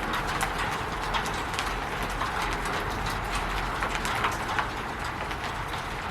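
Steady rain falling on a roof: a continuous hiss of rain with many separate drops tapping irregularly on the roof surface.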